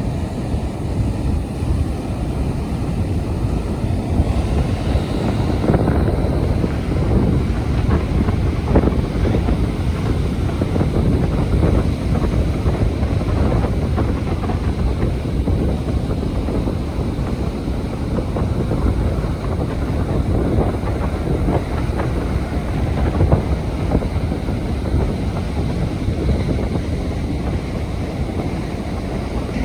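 Strong wind buffeting the microphone in a steady low rumble, with surf washing on the beach underneath.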